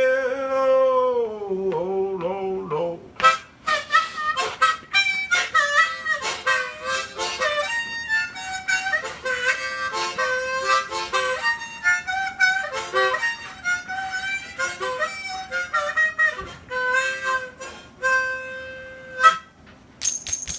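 Blues harmonica played solo in short bending phrases, after a sung note that is held and falls away in the first few seconds.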